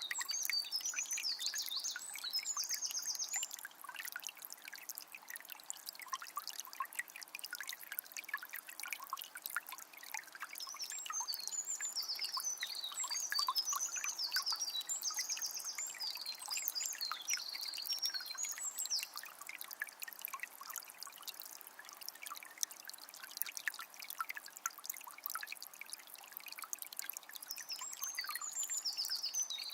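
Water of a small spring trickling and splashing. A bird sings in quick, high chirping phrases near the start, for a long stretch through the middle, and again near the end.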